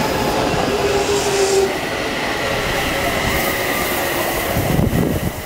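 Odakyu Line electric commuter train passing close by: a steady rumble and rattle of the carriages running over the rails, with a faint steady whine.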